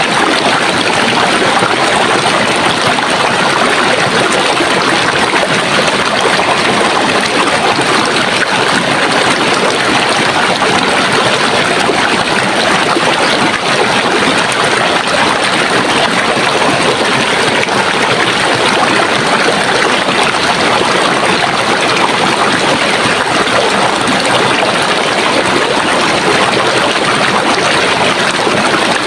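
Running water in a stream, a steady rushing and trickling without breaks.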